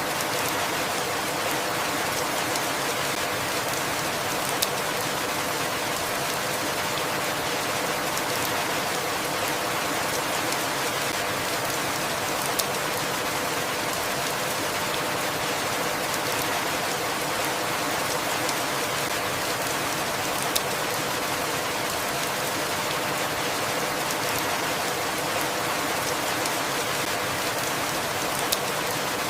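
Steady rainfall, an even hiss of many drops, with a single sharper drop tick standing out about every eight seconds.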